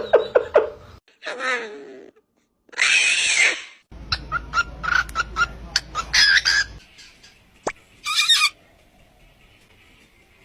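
Two pet birds calling back and forth in a string of short calls. There are warbled calls, a loud harsh squawk about three seconds in, a quick run of sharp chirps, and another squawk near the end.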